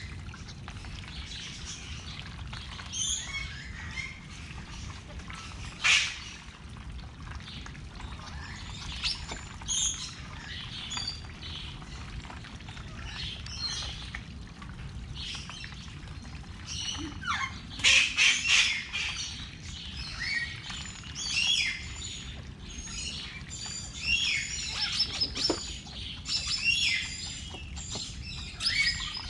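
Birds chirping and calling: short high chirps and calls come at intervals, with one loud call about six seconds in. The calls grow busiest around two-thirds of the way through and again near the end, over a steady low rumble.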